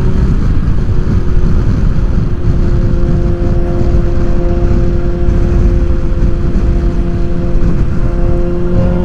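BMW S1000XR's inline-four with a full Akrapovic titanium exhaust running at a steady cruise, its pitch holding level and rising a little near the end. Heavy wind rush on the rider's microphone is mixed in.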